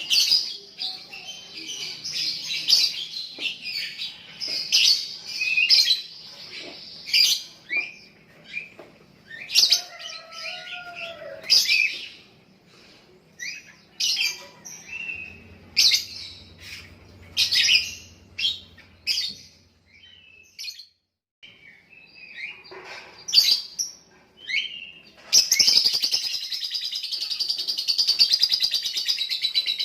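Young lovebird chattering in bursts of high-pitched chirps with short gaps, then breaking into a long unbroken trill (the 'ngekek' song) about 25 seconds in.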